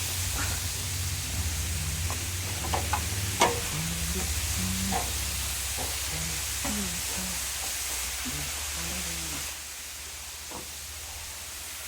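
Steady rushing hiss of a waterfall with a low rumble underneath and a few faint clicks. The noise drops a little about nine and a half seconds in.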